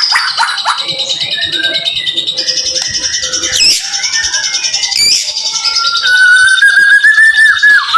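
White-rumped shama (murai batu) singing a fast, unbroken run of varied chirps and trills in the rapid 'tembakan' (shooting) style, with two sharp sweeping notes near the middle and a long held whistle near the end.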